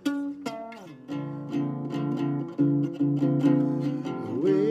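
Mini guitar strummed in a steady rhythm, a chord about every half second.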